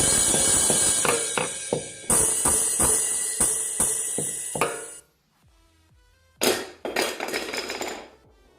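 A musical toy playing bright, jangly music with a rapid run of sharp strikes. It cuts off suddenly about five seconds in, then plays a shorter burst near the end.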